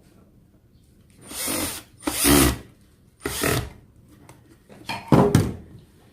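Power drill-driver running in four short bursts of about half a second each.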